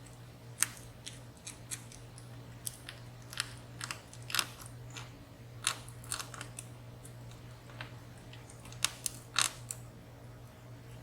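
Lock-picking tools clicking and scraping inside a WSW W10 high-security padlock as its pins and sliders are worked: scattered, irregular sharp little clicks, a few louder than the rest, over a faint steady hum.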